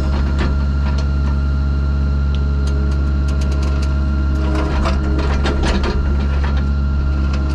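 An engine running steadily with a deep, even hum, with a flurry of clicks and rattles from about three to six seconds in.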